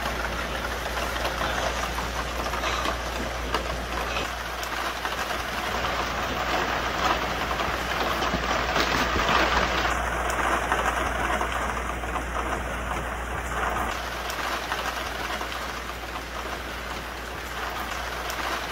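Heavy rain falling steadily on the plastic sheeting of a shelter's roof and walls, a dense, even patter.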